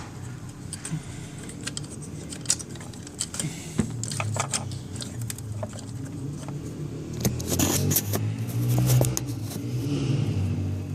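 Metal tools and parts clicking and clinking as hand tools work on the scooter's intake hose clamps, over a low rumble that swells for a couple of seconds near the end.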